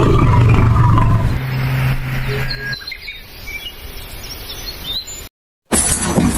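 Birds chirping with short gliding high notes over a loud low steady hum that stops about three seconds in; near the end a short loud burst of noise.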